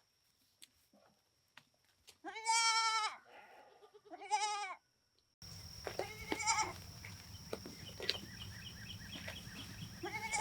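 Farm animal bleating: two long, wavering bleats a couple of seconds in, then shorter bleats over a steady background hum, and a loud bleat at the very end. Faint small chirps come just before the last bleat.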